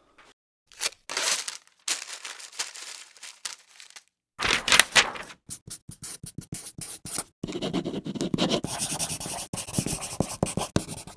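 Writing on paper: scratchy strokes of a writing tool across the sheet. A few separate strokes come first, then a run of quick short strokes, then dense continuous scribbling in the last few seconds.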